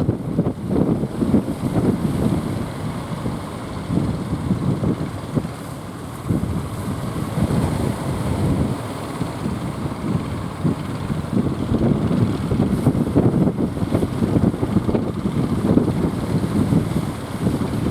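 Strong gusting wind buffeting the microphone, a loud uneven rumble that rises and falls with the gusts.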